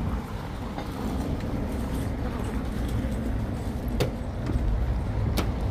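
Car engine idling as a steady low rumble, with one sharp click about four seconds in.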